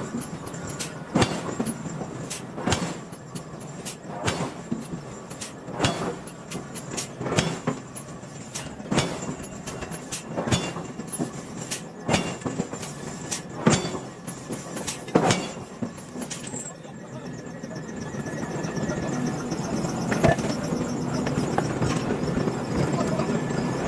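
Forging hammer striking a hot iron billet in a slow, even rhythm, about one blow every second and a half, over steady machinery noise. The blows stop about sixteen seconds in, and the machinery noise grows louder.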